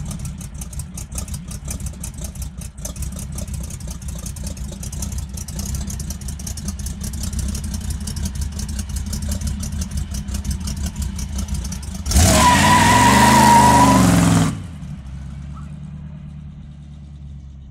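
V8 engine in a Morris Minor van running at low revs with an uneven rumble, then revved hard about twelve seconds in as the van pulls away, with a high steady squeal during the burst. The engine sound drops off sharply and fades as the van drives away.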